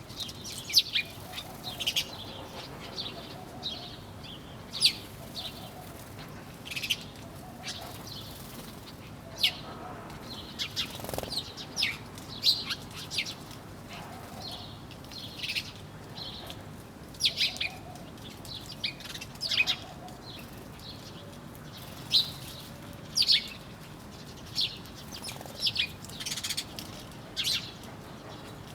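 Several small birds chirping: short, high calls come every second or so, with fainter lower repeated notes beneath them and a faint steady background hiss.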